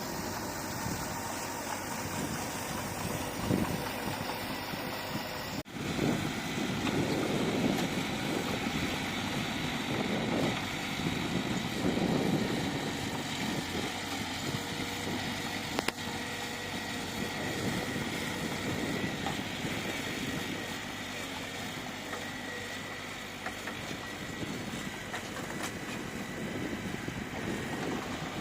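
Heavy construction machinery's diesel engine running steadily, with a momentary break just under six seconds in and louder surges for several seconds after it.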